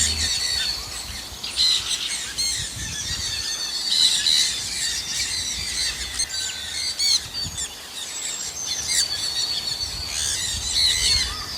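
Many birds chirping and calling over one another in a dense chorus of short, overlapping chirps, with a low rumble underneath at times.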